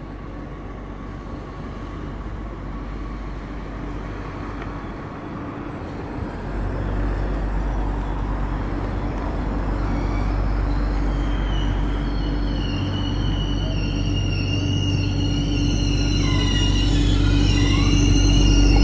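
A train approaching, its rumble growing steadily louder, with high-pitched wheel squeal coming in a little past halfway and wavering near the end.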